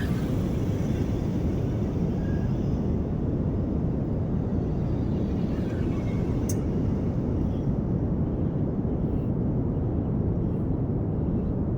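Steady low outdoor rumble with no distinct source. There is a single sharp click about six and a half seconds in.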